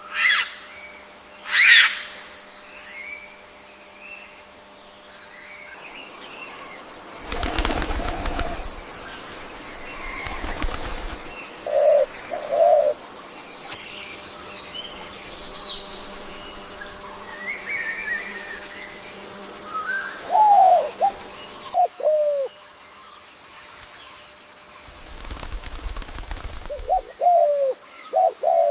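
Forest birds calling: two loud, sharp calls right at the start, then low, short cooing notes in pairs and short runs through the rest. Two stretches of rushing noise come in, one about a third of the way in and one near the end.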